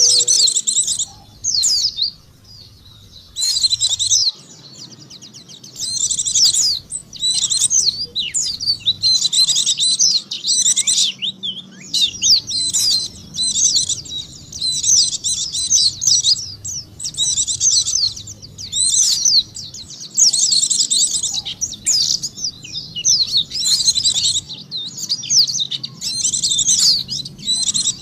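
Oriental white-eye (pleci) song: rapid, high-pitched chirping and twittering in phrases of one to a few seconds, with short gaps between, played as a lure call to attract wild white-eyes.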